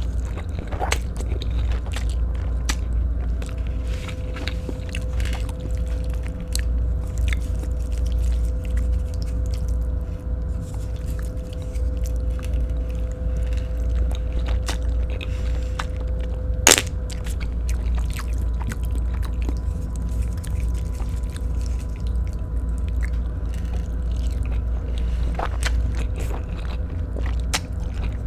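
Close-miked chewing and biting while eating Filipino-style spaghetti, with many small clicks and one sharper click about two-thirds of the way through, over a steady low hum.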